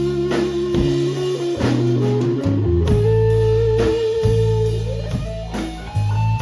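Live rock band playing: an electric guitar holds long lead notes over sustained bass and a steady drum beat, and the lead bends up to a higher note about five seconds in.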